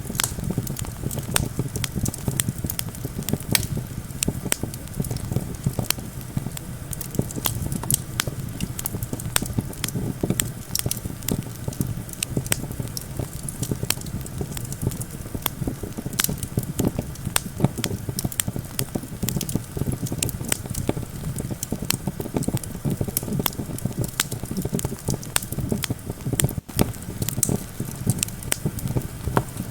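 Wood campfire crackling with irregular sharp pops and snaps over a steady low rumble of wind.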